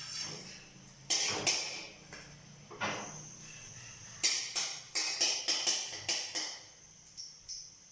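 Kitchen utensils knocking and clattering: a few separate sharp knocks, then a quick run of about eight taps about four seconds in.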